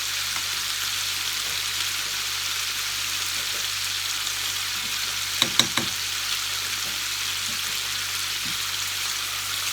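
Cuttlefish pieces sizzling in chermoula in a frying pan, a steady hiss, with a few sharp clicks about halfway through.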